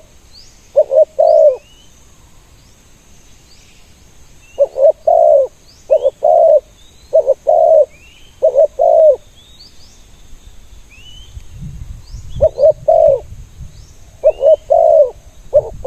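Spotted doves cooing: repeated short phrases of two or three low, rounded coo notes, given in runs with pauses of a few seconds between them. Faint high chirps of small birds come in between.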